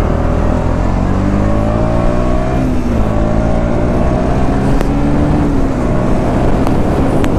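KTM Duke 200's single-cylinder engine accelerating hard, its pitch climbing, dropping at an upshift about three seconds in, then climbing again, over a steady rush of wind on the microphone.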